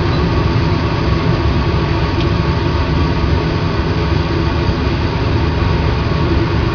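Laboratory fume hood's exhaust fan running, a loud steady rumble of rushing air with no change in level.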